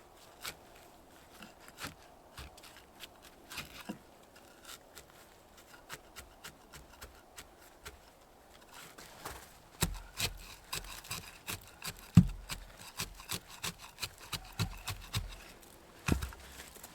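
Scattered clicks, scrapes and rustles of hands-on work, becoming busier with a run of heavier knocks and thumps from about ten seconds in.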